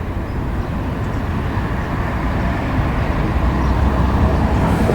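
Low, steady rumble of a vehicle going by, growing slowly louder.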